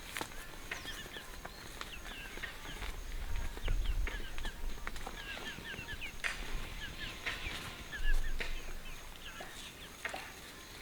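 Birds chirping in many short, quick calls throughout, with scattered clicks and a low rumble near the middle.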